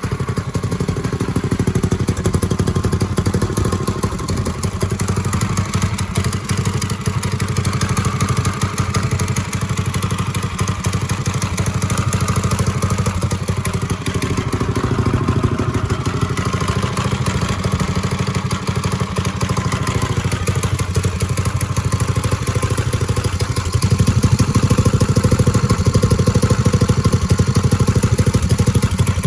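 Small single-cylinder engine of a 1970 Bird minibike running steadily. The engine is fitted with a billet flywheel and a stage 3 carburetor. It gets louder about 24 seconds in.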